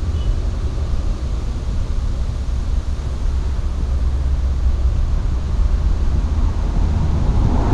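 Wind rumbling and buffeting on the microphone, a steady low rumble.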